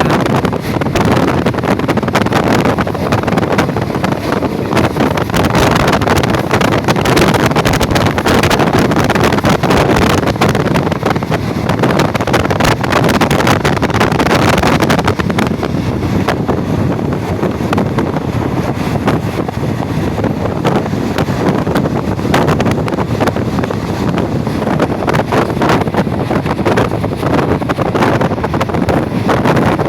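Passenger train running at speed, heard from on board: a steady loud running noise with dense fine clatter from wheels and track, and wind buffeting the microphone.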